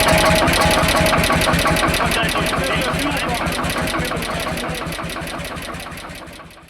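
Lanz Bulldog tractor's single-cylinder hot-bulb two-stroke engine running with rapid, even firing beats, fading away over the last couple of seconds.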